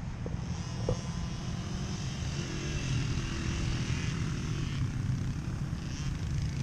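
Small dirt bike engine running at a steady, buzzing note.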